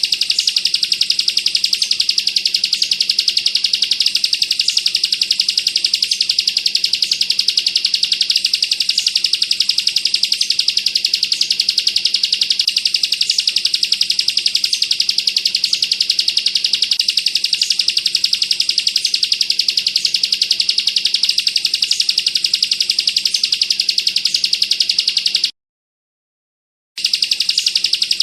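Bar-winged prinia (ciblek) song: a continuous, very fast, high-pitched rattling trill, the dense 'bren' delivery. It cuts out completely for about a second and a half near the end, then starts again.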